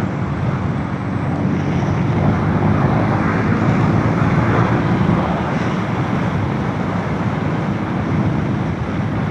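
A motorcycle underway on the road: steady engine noise mixed with the rush of wind and road noise.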